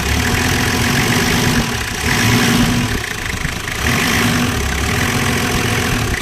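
Toyota 1HZ 4.2-litre inline-six diesel engine idling steadily.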